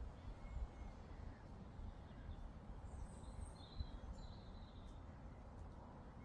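Quiet meadow ambience: a few faint, high bird chirps about halfway through, over a low, steady rumble of breeze.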